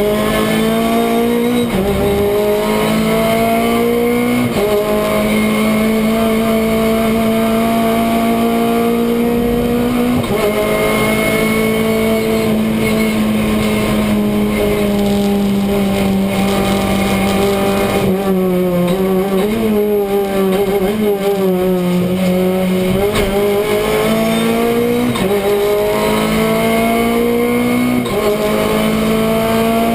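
Renault Clio Cup race car's engine heard from inside the stripped cockpit under hard racing, climbing in pitch through the gears with quick upshifts a couple of seconds apart at the start. Its pitch sinks through the middle as the car slows, then rises again with two more upshifts near the end.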